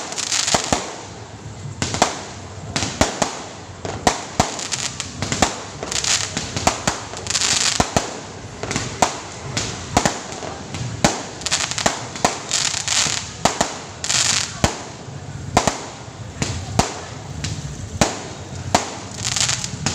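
Fireworks and firecrackers going off continuously: many sharp bangs in quick, irregular succession, with bursts of crackling hiss between them.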